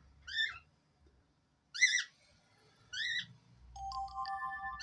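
Short high-pitched bird chirps, three of them spaced about a second or more apart, then a steady whistle-like tone near the end with another chirp over it.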